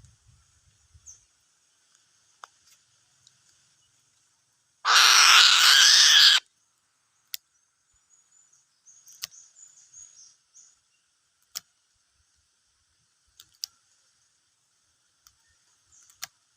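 An eagle gives one loud, harsh call lasting about a second and a half, about five seconds in, amid faint scattered clicks while it feeds.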